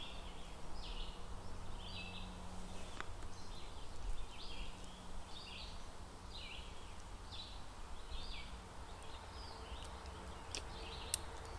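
Repeated short high chirps, about one and a half a second, from a bird or insect calling over steady outdoor background noise, with a faint click about three seconds in.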